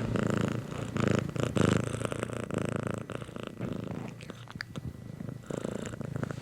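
Domestic cat purring close up: a fast, even run of pulses, louder for the first three seconds and softer after.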